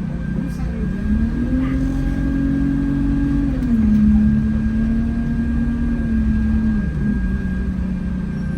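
Alexander Dennis Enviro200 bus engine heard from inside the bus: its note rises about a second in as it pulls, steps down a little about halfway, then falls back to a low steady note near the end. A thin steady whine runs underneath, which the uploader takes for the air-conditioning cooling fan.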